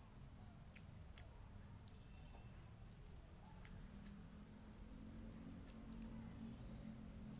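Near silence: faint, steady high-pitched insect chirring with a few soft clicks.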